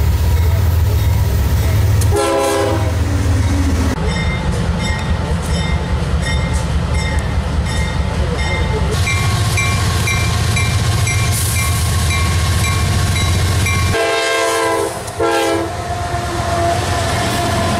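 CSX diesel freight locomotives rumbling past with a loud, steady engine drone. A multi-tone air horn sounds briefly about two seconds in, then twice more in quick succession about three quarters of the way through. In between, the wheels click rapidly and regularly over the rails.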